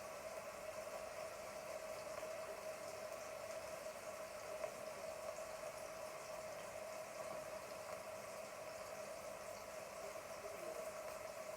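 Chicken frying in oil in a pan: a faint, steady sizzle, with a steady hum underneath.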